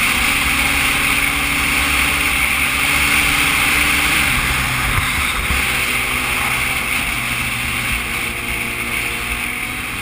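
Motorcycle engine running under way, heard from a camera mounted on the bike, over a steady rush of wind. The engine note changes about four seconds in.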